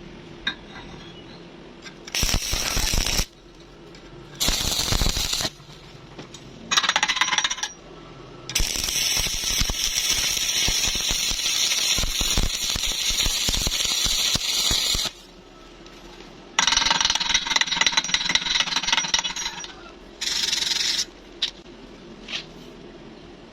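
Stick (SMAW) welding arc crackling in bursts: three short strikes of about a second each, then a long run of about six seconds, a run of about three seconds and one more short burst.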